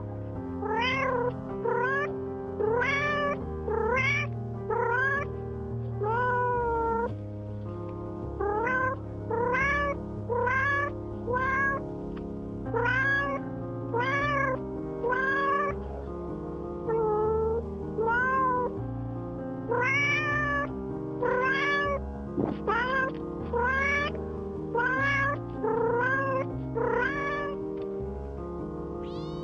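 An animal calling over and over in short, high calls that rise in pitch, about one a second, with a few short pauses, over steady background music.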